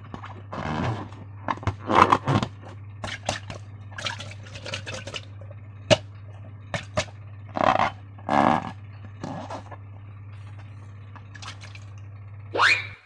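Irregular wet squelches, drips and scrapes of slime being squeezed from balloons and worked by hand, over a steady low hum. Near the end comes a short rising squeak.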